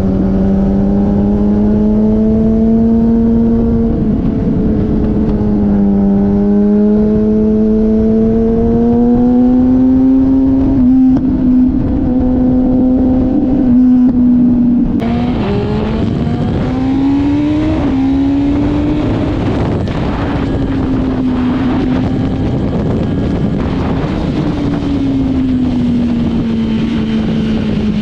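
Motorcycle engine running continuously under way, its pitch slowly rising and falling with the throttle.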